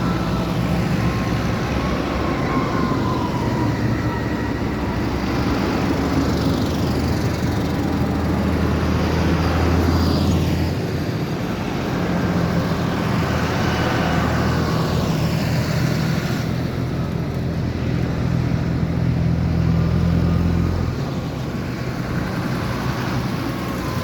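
Tractor engines running as tractors drive past one after another, each with a steady low engine note. Two passes stand out, one up to about ten seconds in and a louder one from about twelve to twenty-one seconds.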